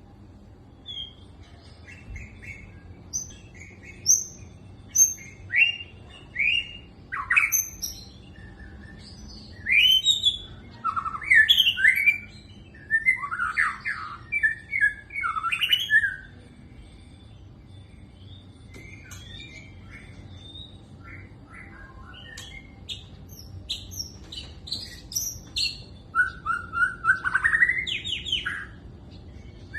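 Murai batu (white-rumped shama) singing: a varied run of loud whistled phrases, sliding notes and harsh chattering calls, coming in bursts with a quieter stretch about midway.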